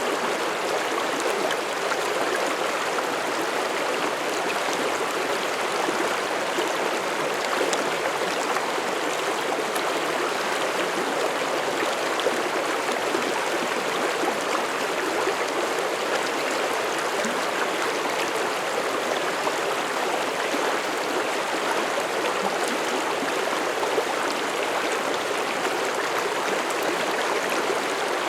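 Mountain stream rushing over rocks, a steady, even flow of water with constant babbling.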